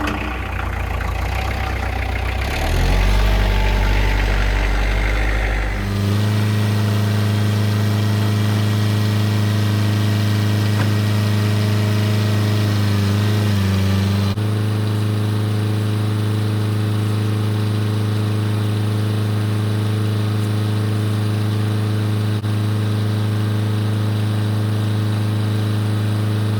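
Kubota tractor's diesel engine running, its speed stepping up about six seconds in, wavering briefly around the middle, then holding steady.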